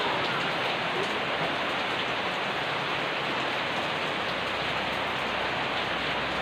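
Steady rain falling, a dense, even hiss with no letup.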